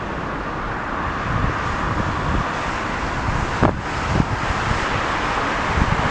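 Wind buffeting the microphone in gusts over a steady rushing noise that grows slightly louder, with a single sharp click a little past halfway.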